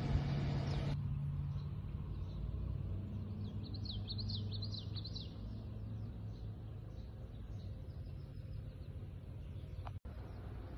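A bird chirping in a quick run of short notes for about a second and a half, about four seconds in, over a steady low rumble.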